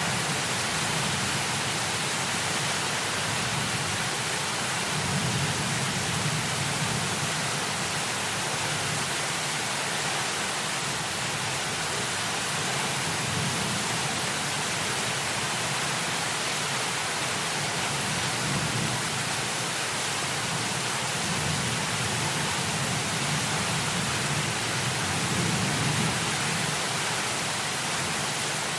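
Steady hiss of heavy rain over the low rumble of truck road noise, the rumble swelling and fading every few seconds.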